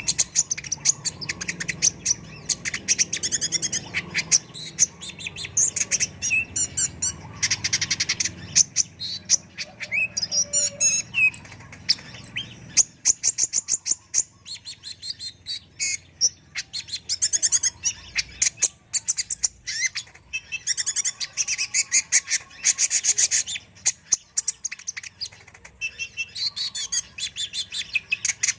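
Kolibri ninja (purple-throated sunbird) singing in a long run of rapid, high chirps and trills in bursts a few seconds long with short pauses between them, faint low hum under the first half.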